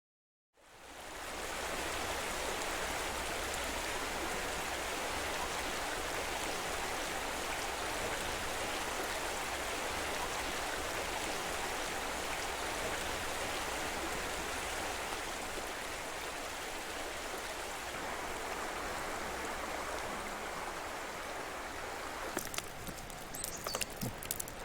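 Steady rushing of a flowing stream, fading in at the start. Near the end a few short sharp clicks and brief high chirps sound over it.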